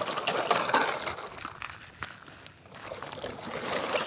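Toy trucks being pushed over stones and gravel: an uneven crackly scraping and rattling with many small clicks, fading in the middle and picking up again near the end.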